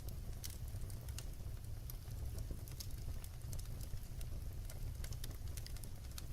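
Wood fire burning, with steady irregular crackles and pops from the logs over a low rumble of flame.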